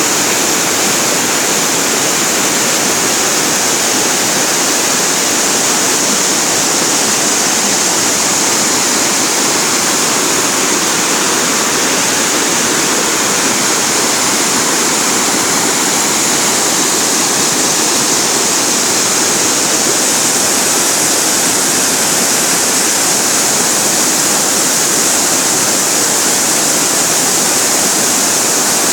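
A waterfall, falling water making a steady loud rush without a break.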